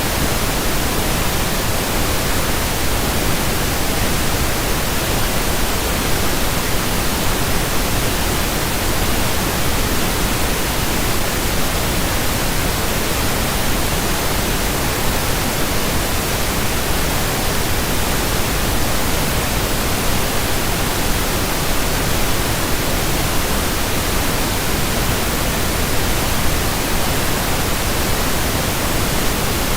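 Steady pink noise, an even, unchanging hiss with no events or changes.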